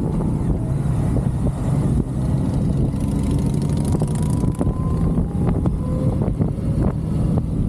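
Motorcycle engine running steadily under way, with low wind rumble on the microphone.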